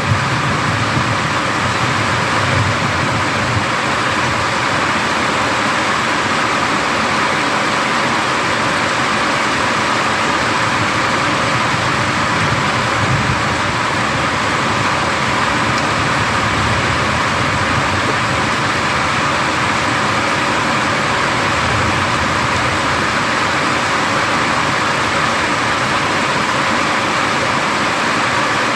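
Thunderstorm rain falling steadily: an even, unbroken hiss with no thunderclaps.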